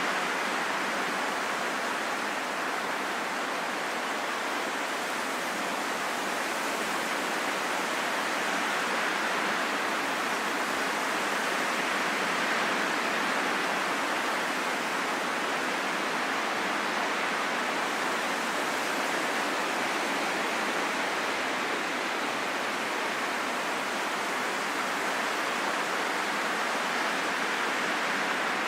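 Steady wind: an even rushing hiss with no howl or whistle, rising and falling slightly in level.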